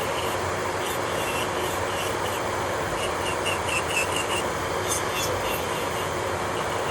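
Electric nail drill (e-file) running steadily as it files gel off the nails, with a few light ticks and scrapes against the nail about midway.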